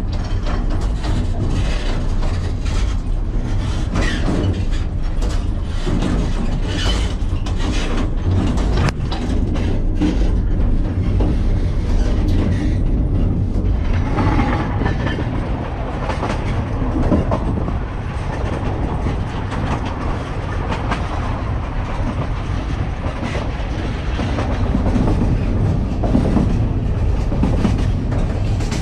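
Narrow-gauge (750 mm) passenger train running along the track, its wheels clattering over the rail joints over a steady low rumble.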